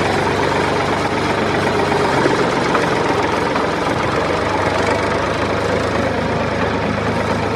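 An engine running steadily: a low hum with a dense rattle over it, holding the same pace throughout.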